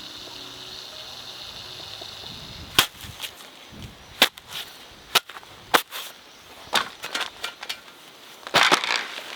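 A series of sharp knocks or strikes at uneven gaps of about half a second to a second, starting about three seconds in, over a steady high-pitched hiss.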